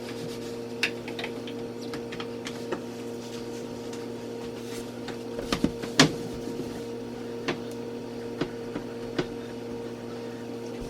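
A steady hum with scattered light clicks and knocks from handling things, the sharpest knock about six seconds in.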